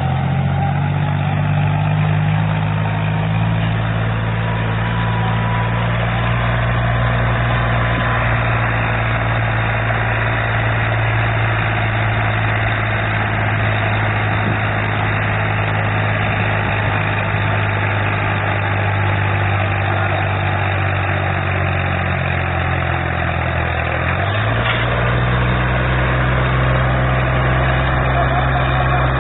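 Diesel tractor engine running steadily at low revs. About three-quarters of the way through, the engine note steps up as it speeds up, then holds steady.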